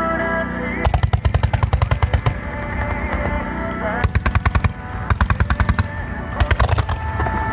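Fireworks going off in rapid strings of sharp reports, about ten a second, in four volleys: a long one about a second in, then three shorter ones in the second half. Music plays underneath throughout.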